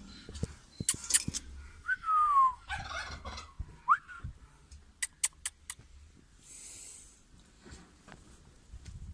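Farm birds calling: a clear falling call about two seconds in and a short rising one near four seconds, with a few sharp clicks in between.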